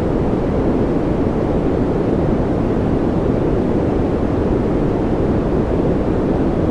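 White-noise track: a steady, unchanging rushing noise, deep in tone, with most of its strength low and only faint high hiss.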